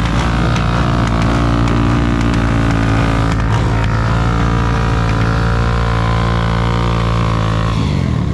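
A vehicle engine running hard at steady high revs, its pitch sagging slightly over the last few seconds before it changes abruptly near the end.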